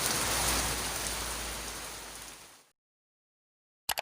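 Heavy rain falling, a steady hiss that fades out about two and a half seconds in, followed by silence and a brief click near the end.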